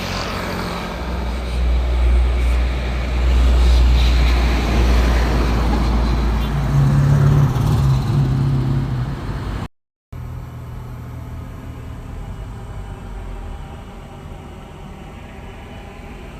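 A heavy road vehicle's engine running loudly with road noise. About ten seconds in, the sound breaks off at an edit and a quieter, steady engine hum follows.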